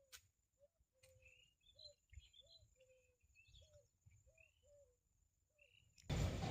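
Faint bird calls: a string of short, low, repeated notes roughly twice a second, mixed with brief higher chirps. About six seconds in a sudden loud rushing noise cuts in.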